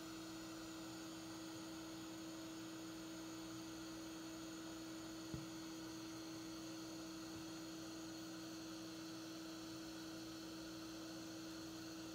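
A steady, low-level electrical hum on one pitch, with a single sharp click about five seconds in.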